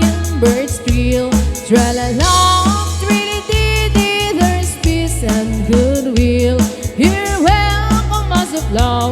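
Live band playing an instrumental waltz passage: a lead melody with sliding notes over steady bass and a light, even beat.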